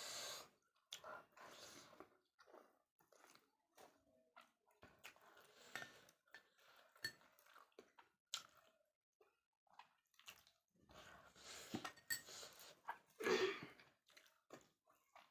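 Close-up eating sounds of someone chewing spicy chicken and rice: wet mouth and lip smacks with scattered small clicks. There is a short hum from the eater about 13 seconds in.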